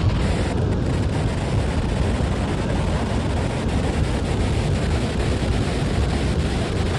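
Steady, loud rushing roar of Niagara Falls, with wind on the microphone.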